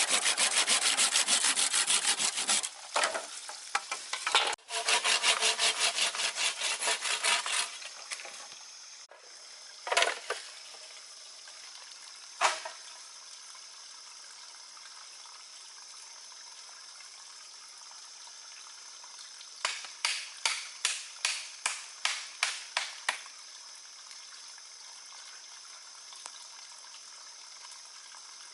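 Hand saw cutting through wood in fast back-and-forth strokes, with a short pause, stopping after about seven seconds. Then two single knocks, and later a quick run of about a dozen sharp knocks, roughly four a second.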